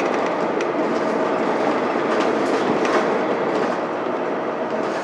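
Cabin running noise of a 2006 Mitsubishi Fuso Aerostar city bus under way: the 6M70 straight-six diesel and road noise steady, with light clicking rattles from the body. The level eases a little near the end.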